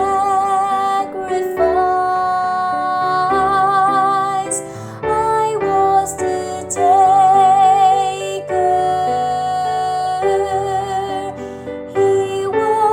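A woman's soprano voice singing long, held notes with vibrato over piano accompaniment: the Soprano 2 line of a three-part women's choir (SSA) arrangement, sung as a part guide.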